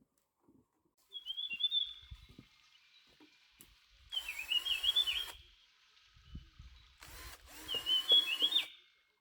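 A songbird singing three short, high, warbling phrases, about a second, four seconds and eight seconds in. A hiss comes on and cuts off abruptly under the second and third phrases.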